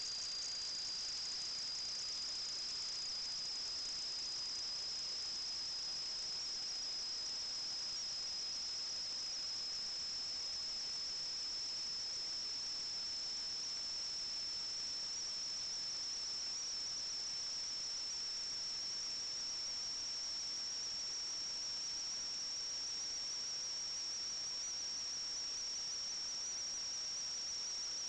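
A steady high-pitched whine over a low hiss, its pitch creeping slowly upward.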